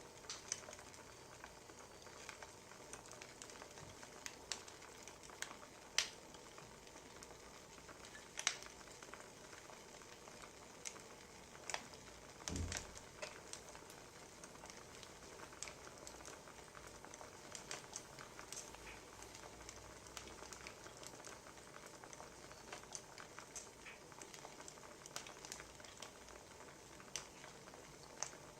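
Wood fire crackling, with sharp pops at irregular intervals over a steady hiss. A duller, fuller knock about twelve and a half seconds in.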